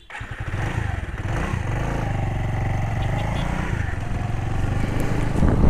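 Cruiser motorcycle's engine running steadily under way on a road, heard from the rider's seat.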